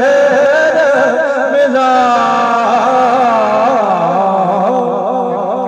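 A man singing a long, drawn-out wavering note with melodic turns, over music; the sound fades out near the end.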